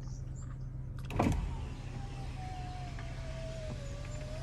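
Car's electric power window motor running for a couple of seconds, a thin whine that sinks slowly in pitch and rises again near the end, after a thump about a second in. A steady low hum runs underneath.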